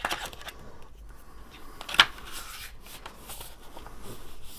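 Small handling noises from craft supplies, tape and paper being picked up and turned over: light rustles and clicks, with one sharp click about two seconds in.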